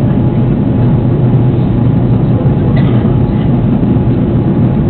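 Steady rumble of an Airbus A330's engines and airflow heard from inside the passenger cabin, deep and even throughout, with a faint tick about three seconds in.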